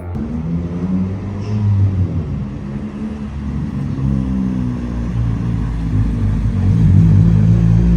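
A car engine running, its pitch drifting up and down with light revving, getting louder toward the end.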